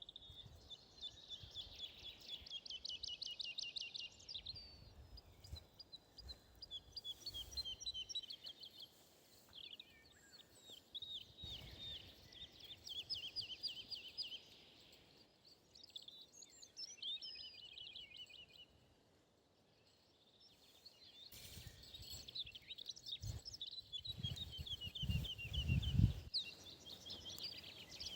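Wild songbirds singing: fast, high trilled phrases repeated one after another, with more than one bird overlapping. A low rumble rises under them near the end.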